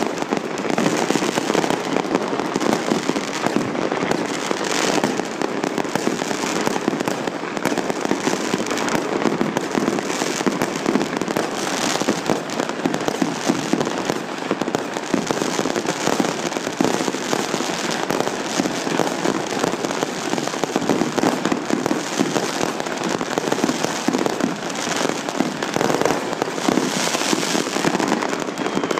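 Fireworks going off continuously: a dense, unbroken crackle of many rapid small bangs, with a few louder bangs standing out.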